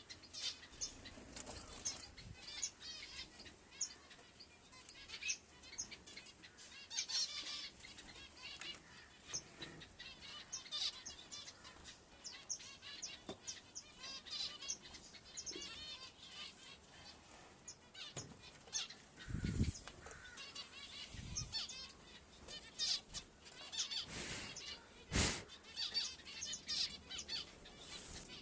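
Pet birds chirping in short, rapid calls, with wings fluttering in bursts throughout. There are a couple of dull thumps about two-thirds of the way through.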